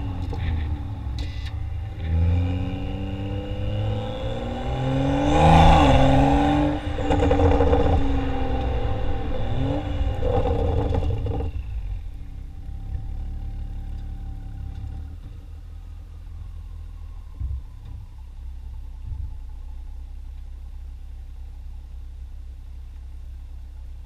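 Tuned BMW 335i's turbocharged inline-six exhaust, through a catted downpipe and modified factory muffler, revving up and down in pitch several times and loudest about six seconds in. About halfway through it drops suddenly to a quieter, steady low rumble.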